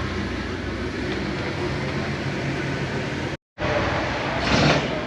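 Steady low mechanical hum over outdoor background noise. The sound cuts out completely for a moment about three and a half seconds in, and a short louder burst comes near the end.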